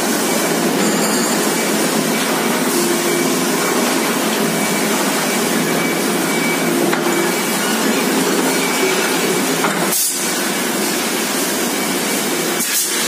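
Compressed air blowing with a steady, loud hiss that breaks off for a moment about ten seconds in and again near the end.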